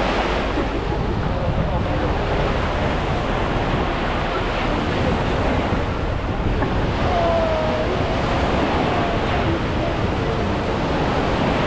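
Surf washing onto a beach in a steady rush, with wind buffeting the microphone.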